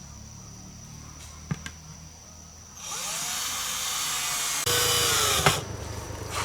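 Handheld power drill running for about three seconds, its pitch rising as it starts. It gets louder about two seconds later, then slows with a falling pitch and stops with a sharp click.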